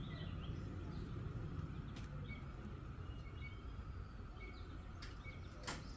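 Open-air ambience: a steady low rumble with small birds chirping at intervals, and a single sharp click about five and a half seconds in.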